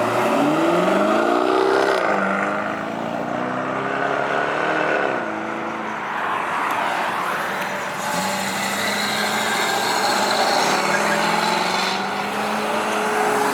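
Car engine revved hard, its pitch climbing and falling twice in the first few seconds, then held up at high revs near the end.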